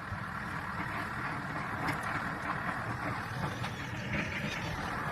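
Large tractor's engine running steadily while plowing, with a dense, even rumble and hiss.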